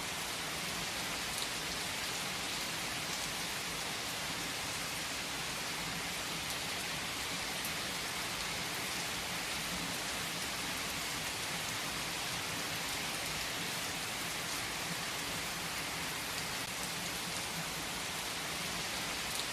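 Steady rain: an even hiss, with a few single drops ticking out now and then.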